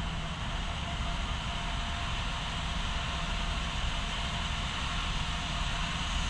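HO scale model train running on the layout track, a steady rolling rumble with a low hum.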